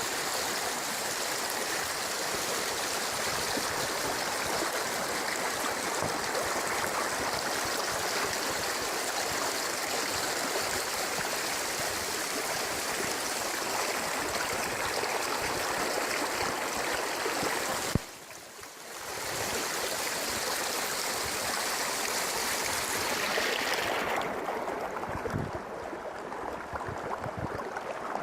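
Rushing water of a river swollen by heavy rain, a steady hiss. It cuts out briefly about two-thirds in, and near the end the rush thins while a few low rumbles come in.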